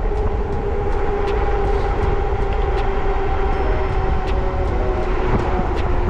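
Fat-tyre ebike climbing a hill under throttle alone, without pedaling: its 750-watt electric motor whines at a steady pitch that sags slightly as it labours, under a heavy rumble of wind on the microphone.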